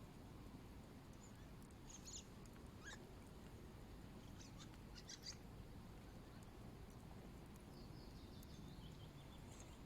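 Faint bird chirps in near silence: a few short high notes about two seconds in and again around five seconds, and a soft falling call near the end, over a low, even background rumble.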